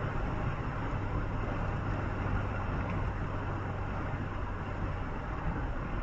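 Steady running noise of a road vehicle travelling at speed: a constant low engine hum under an even rush of tyre and road noise.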